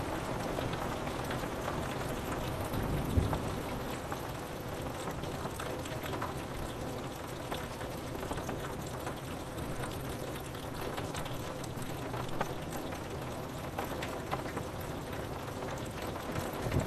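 Steady rain pattering on a window pane, with a short low rumble of thunder about three seconds in and another starting right at the end.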